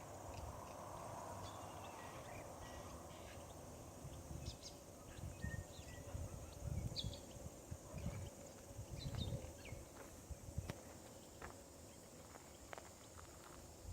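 Faint outdoor ambience with scattered short bird chirps and ticks, including a brief steady whistle about five seconds in, over irregular low thumps.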